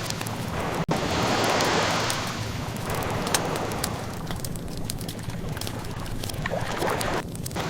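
Ocean waves washing in, a steady rush that swells and eases, with a wood fire crackling over it in scattered sharp pops.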